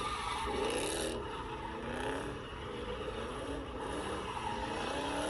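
Car engines revving, their pitch wavering up and down over a steady rush of noise.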